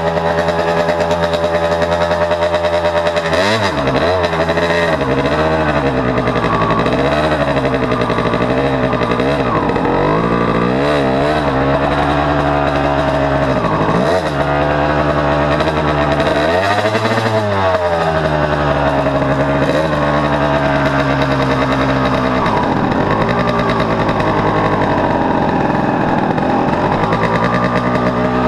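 Dirt bike engine running under way, its pitch rising and falling again and again as it revs up and drops back.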